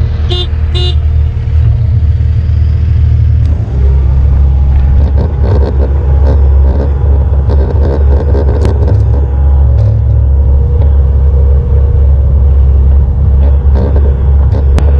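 A vehicle engine running steadily under way: a loud, low drone that grows a little louder about four seconds in. Two short beeping tones sound near the start.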